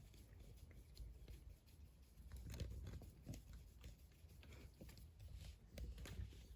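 Near silence with faint, scattered small clicks and knocks from a T25 Torx driver loosening the shifter knob's retaining screw.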